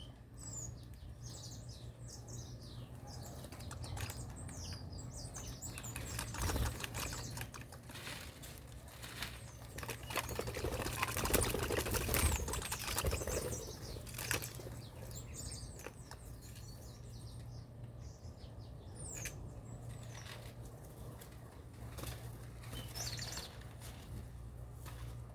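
Small birds chirping in short, high calls, with a burst of wing flapping and rustling in the middle, over a steady low hum.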